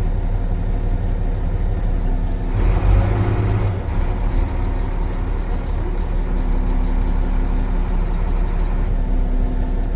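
Volvo A25F articulated dump truck's diesel engine running steadily as the truck creeps forward, with a brief louder surge about two and a half seconds in that lasts about a second.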